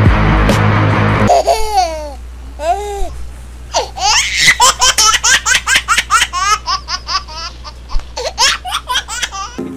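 Background music that cuts off about a second in. It gives way to a long run of high, laugh-like squealing calls that rise and fall in pitch, slow at first and then quick and rapid, over a low steady hum.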